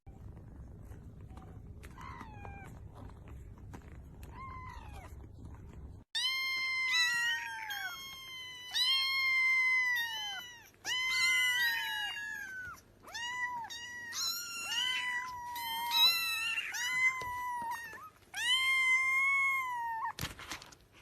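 Cat meowing: a few faint meows over a steady background hiss, then, after a sudden change about six seconds in, a long run of loud, high-pitched, drawn-out meows about a second each, some overlapping.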